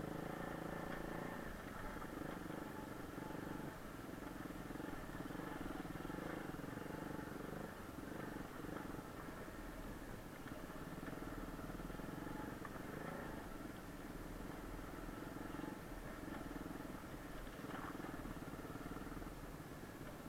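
Kayo pit bike's single-cylinder four-stroke engine running, its note holding fairly steady with small shifts in pitch.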